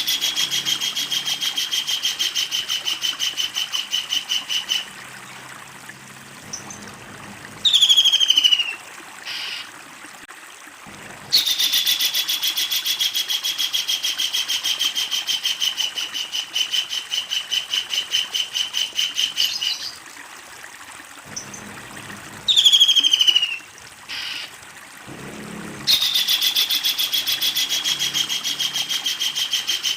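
Kingfisher giving its long rattling 'laughing' call: fast runs of sharp, evenly repeated notes at a steady pitch, each run lasting several seconds. It calls three times, with a short falling note between the runs.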